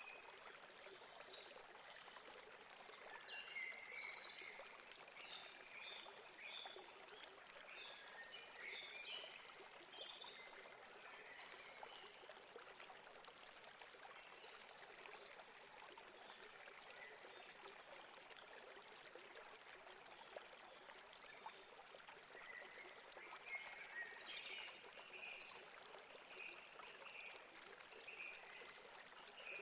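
Faint steady rush of a flowing river, with birds chirping in scattered bursts, busiest early on and again near the end.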